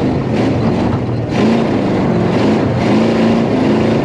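Tough truck engine revving hard, its pitch climbing and then holding several times in quick succession as the truck is driven on the dirt course.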